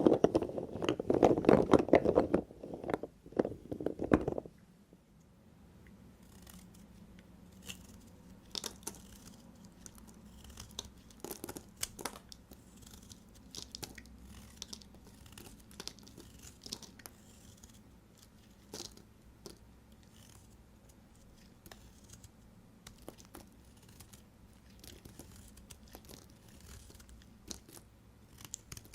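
A knife cutting through bar soap, with a loud, dense crunching for about the first four seconds. After that come quieter, scattered clicks and scrapes as the soap is handled and cut.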